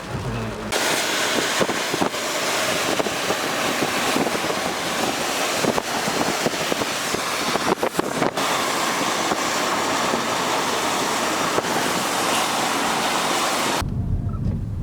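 Intense thunderstorm rain pelting a car, a dense hiss full of sharp drop hits. It cuts off abruptly near the end, leaving a low rumble.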